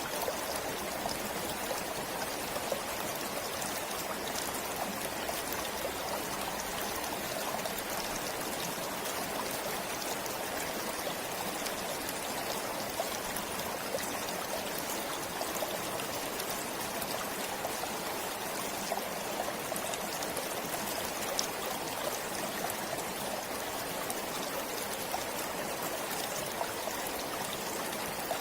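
Forest stream flowing steadily, with a continuous trickling and splashing of water.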